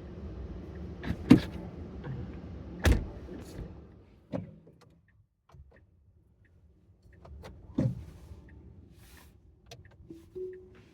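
Inside an electric car's cabin: steady road noise that fades away a few seconds in as the car slows to a stop, with a few sharp clicks and knocks, the two loudest in the first three seconds.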